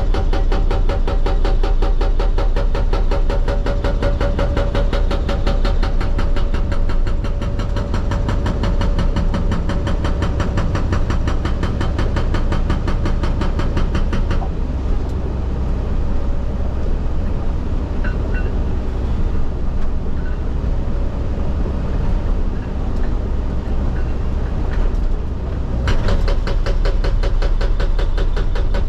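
Excavator-mounted hydraulic rock breaker hammering rapidly, many blows a second, over the excavator's running engine. The hammering stops for about eleven seconds partway through, leaving the engine running, and starts again near the end.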